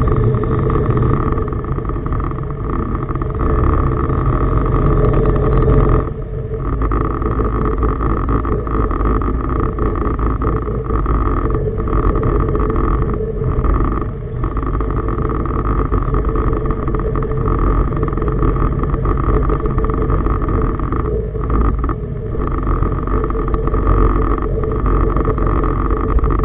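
Tugboat diesel engine running steadily, loud and droning, with a few brief dips in level.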